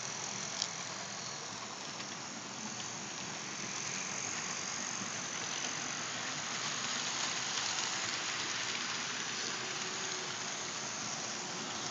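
HO scale model trains running on the layout: a steady whirring hiss of metal wheels on rail and small locomotive motors, with a faint high whine.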